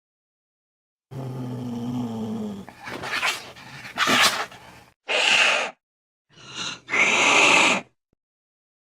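Angry cat growling low, then hissing and spitting in several short, harsh bursts.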